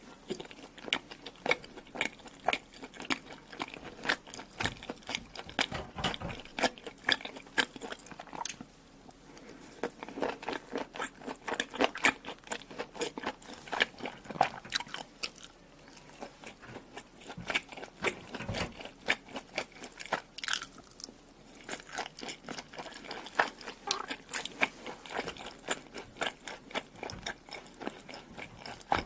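Close-miked mukbang eating: steady crunching, biting and wet chewing of food, a rapid run of sharp crackles with a couple of brief pauses.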